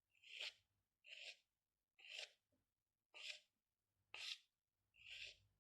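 Faint, regular scratching strokes of a pen or pencil drawing on paper, six short strokes about one a second.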